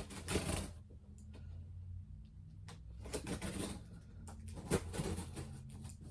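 Handling of a cardboard shipping box and its packing: a few bursts of rustling and scraping and a sharp knock just before the end, over a faint steady low hum.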